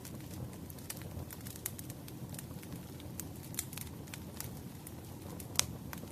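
Firewood burning, with irregular sharp crackles and pops over a low, steady rumble of the flames. One louder pop comes about five and a half seconds in.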